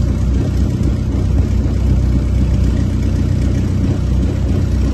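Kitfox 2's D-Motor aircraft engine running steadily on the ground, with no change in speed.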